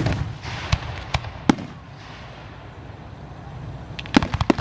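Aerial fireworks going off. A loud bang at the start is followed by several more reports over the next second and a half, trailing a fading crackle. A rapid run of sharp crackling pops begins about four seconds in.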